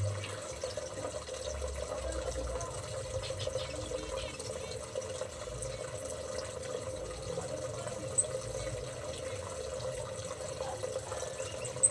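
Water running steadily over a constant low hum, with two sharp clicks, one about eight seconds in and one at the very end.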